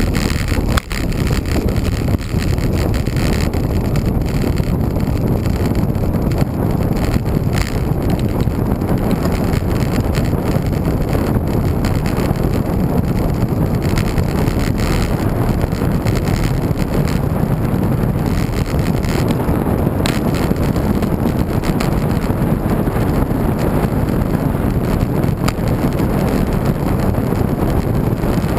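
Steady wind rush buffeting the microphone of a camera on a moving road bike.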